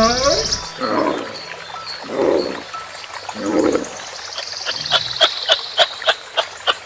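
Animal calls: three short, rough calls about a second and a half apart, followed by a run of sharp clicks about three a second.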